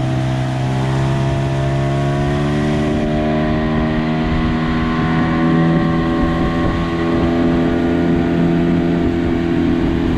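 Motorboat's outboard motor running under throttle, its note rising over the first few seconds and then holding steady as the boat gets up on plane. Water and wind rush under the engine note.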